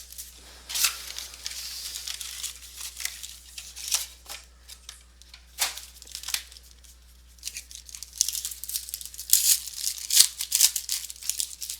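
Packaging of a box of sports cards being torn open and crinkled by hand, in irregular crackling bursts, with the loudest run near the end.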